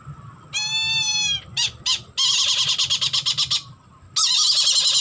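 Birds of prey calling: one long drawn, whining note about a second in, a few short notes, then two long bouts of harsh, rapidly pulsing screeching.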